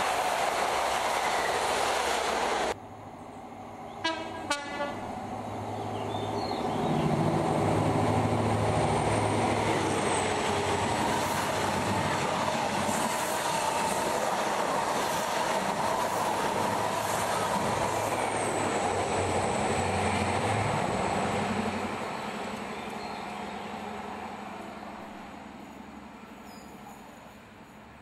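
A train rumbles past and its noise cuts off suddenly about three seconds in. About a second later a train's two-tone horn gives a couple of short blasts. A diesel train then approaches and runs past with its engine note and wheels on the rail joints, fading into the distance near the end.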